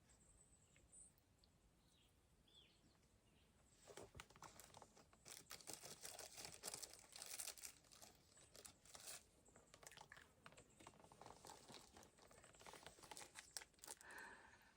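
Faint irregular crunching and crackling of footsteps on dry ground and brush, starting about four seconds in after a few near-silent seconds with faint bird chirps.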